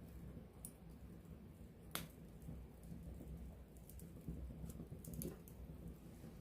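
Wood campfire crackling close up: a low, soft rumble of burning with scattered sharp pops and snaps, the loudest about two seconds in.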